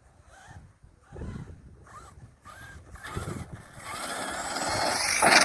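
Electric brushless motor of an Arrma Kraton 6S RC monster truck giving several short rising whines as the throttle is blipped. It then runs hard with growing drivetrain and tyre noise, loudest near the end as the truck closes in.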